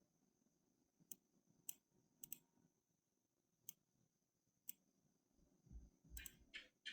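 Faint, isolated clicks from a computer being worked, about six spread over the first five seconds, with a few soft low mouth or breath sounds near the end.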